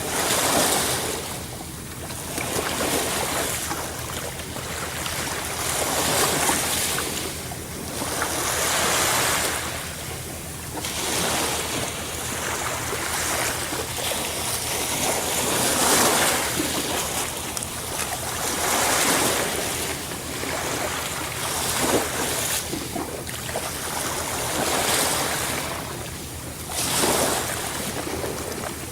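Sea waves surging and breaking: a rushing hiss that swells and falls back about every three seconds.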